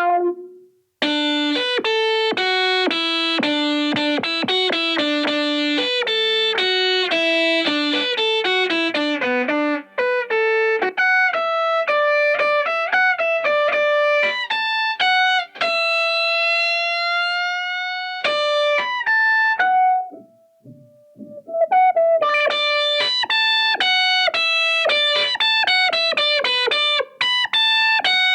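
Electric guitar played through a Boss SY-1 guitar synthesizer pedal on a lead synth patch, giving a buzzy synth-lead tone. It plays fast runs of notes, holds one note that bends slightly upward about halfway through, breaks off briefly, then goes back to quick notes.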